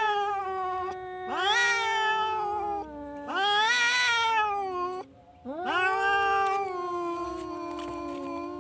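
Domestic cat yowling in long, drawn-out calls, one after another with short breaks. A call trails off at the start, two more last about a second and a half each, and a long one begins about five and a half seconds in and slowly falls in pitch.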